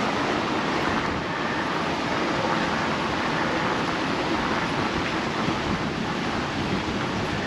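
Steady rushing noise of a bicycle ride along a brick path: wind on the microphone mixed with the tyres rolling, and no distinct knocks or voices standing out.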